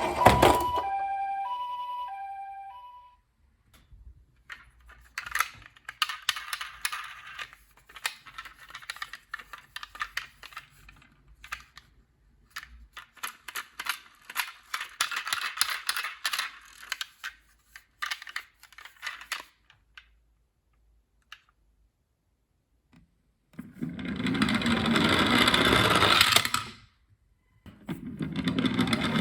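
A toy ambulance's electronic two-tone hi-lo siren sounds for the first few seconds and stops. Then come about fifteen seconds of small plastic clicks and rattles from toy cars being handled. Near the end, toy ambulances roll down the slope twice, each a loud rolling rumble of about three seconds.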